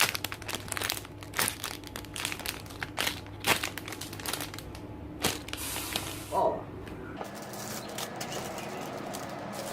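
Crinkling and rustling handling noise, a run of quick clicks and crackles, as squishy toys are picked up and handled. A brief exclaimed "oh" comes in about two-thirds of the way through.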